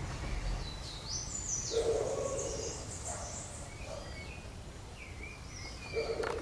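Birds calling: high chirps and whistled glides. A low hoot-like call comes about two seconds in and again near the end, over a steady low background rumble.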